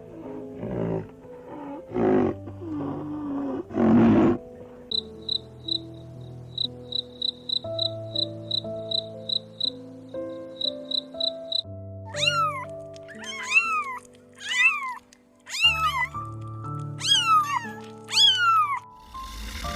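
Animal calls over background music. The first few seconds hold low, rough growling calls. A run of short high chirps, about two or three a second, follows. From about twelve seconds in come some seven separate arching calls that rise and then fall in pitch, like meows.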